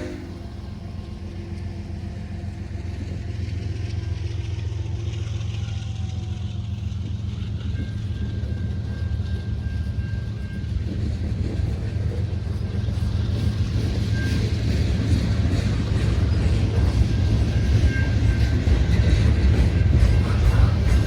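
Freight train horn cutting off at the very start, then the heavy low rumble of diesel locomotives and a freight train passing, growing louder, with rapid clicking of wheels over the rails in the second half.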